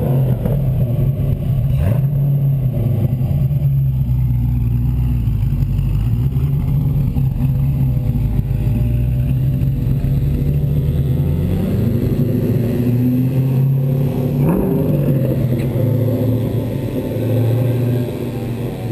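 Open-framed kart's V8 engine running at low, steady revs as it drives along, heard close up. A little past halfway the revs climb for about three seconds, then fall back to a steady run.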